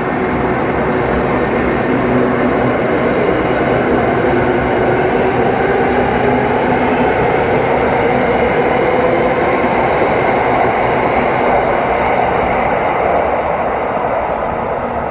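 SRT Red Line electric commuter train running, heard from inside the car: a steady rumble of wheels on the rails with a faint hum from the traction motors.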